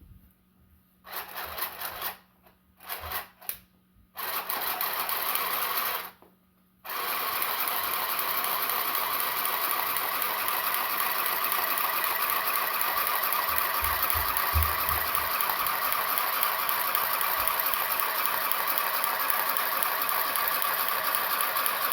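Handheld electric sewing machine stitching through fabric: it runs in several short starts and stops for the first few seconds, then runs steadily without stopping.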